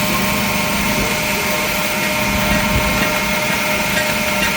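Belt grinder running steadily during blade grinding: a constant motor hum and whine with several steady tones and no change in pitch.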